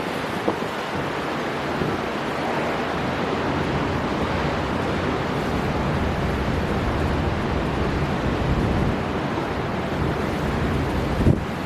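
Storm wind and surf: a steady, dense rush of strong wind over crashing sea, with a brief louder burst near the end.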